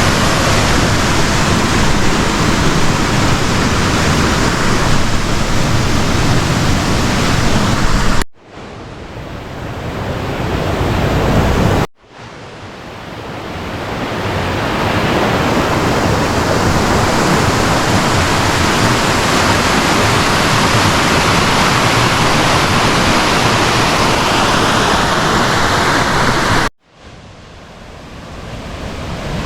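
Waterfall's rushing water, a loud steady wash of noise. It cuts out suddenly three times, about eight seconds in, about twelve seconds in and near the end, and each time builds back up over a few seconds.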